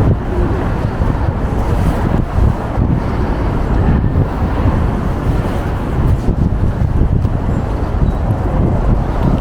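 Wind buffeting the microphone: a loud, low rumble that rises and falls unevenly with the gusts.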